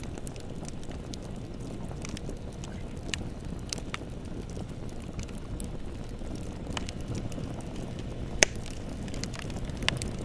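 Bonfire burning: a steady low rush of flame with scattered crackles and snaps, and one sharp pop about eight seconds in.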